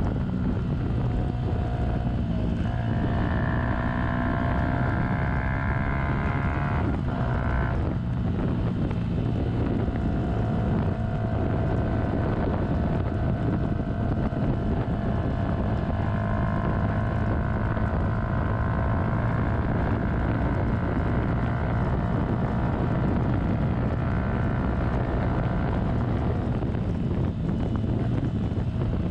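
2015 Yamaha YZF-R125's 125cc single-cylinder four-stroke engine running under way, with wind noise on the microphone. The engine note climbs over the first few seconds, breaks briefly about seven seconds in, then holds fairly steady.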